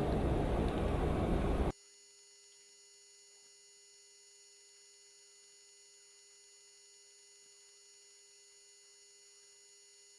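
A steady rushing noise cuts off abruptly about a second and a half in, leaving near silence with a faint, steady electrical hum.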